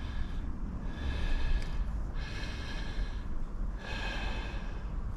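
A man breathing heavily through the nose close to the microphone: three slow, noisy breaths about a second and a half apart.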